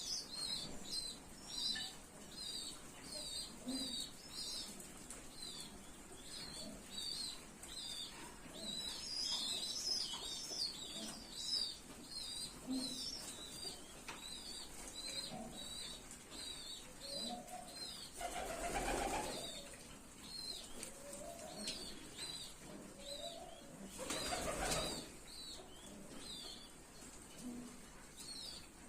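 Pigeon squabs squeaking in a steady run of short, high begging peeps, with some low pigeon coos. Wings flap twice, loudly, about nineteen and twenty-five seconds in.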